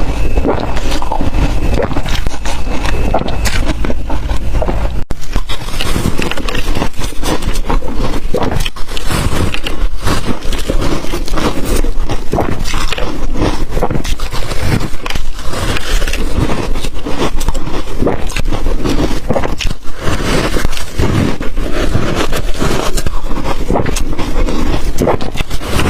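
Close-miked biting and crunching of ice coated in matcha and milk powder: dense, irregular crackling crunches throughout, with a momentary break about five seconds in.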